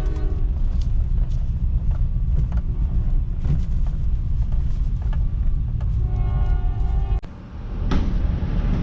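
Pickup truck driving on the road while pulling a heavily loaded scrap trailer: a steady low rumble from the road and engine. It dips suddenly and briefly about seven seconds in.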